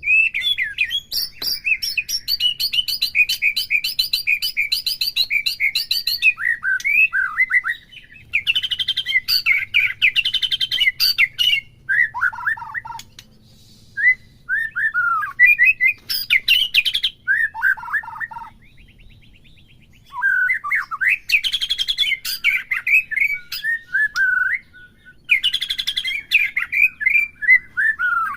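White-rumped shama (murai batu) singing a long, varied song of fast whistled phrases, sliding notes and dense chattering rattles, with a brief pause about two thirds of the way through.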